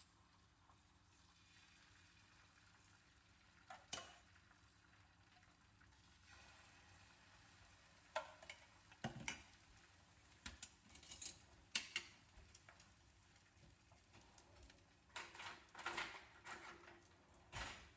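Faint sizzling of food frying in a pan, with scattered clinks and knocks of a utensil against the pan and dishes, clustered in the second half.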